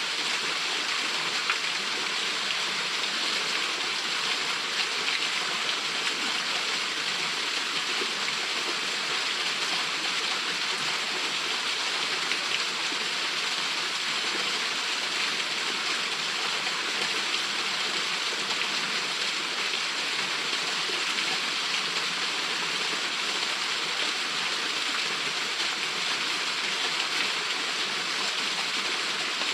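Small waterfall falling and splashing into its pool, a steady hiss of water with no change.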